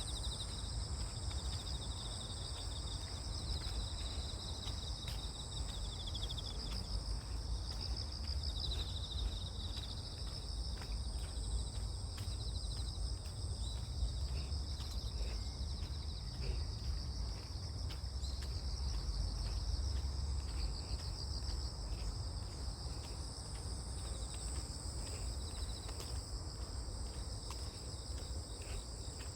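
A chorus of crickets and other grass insects chirping, several pulsed trills overlapping in a steady, unbroken drone. A low rumble runs underneath.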